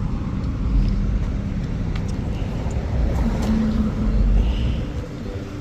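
Highway road traffic going by: a steady rush of car engines and tyres.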